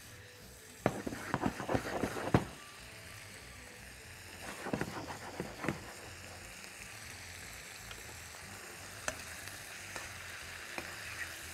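Meat and tomato frying in ghee in a wok, a steady sizzle. It is broken by two spells of a utensil stirring and scraping against the pan, about a second in and again near the middle.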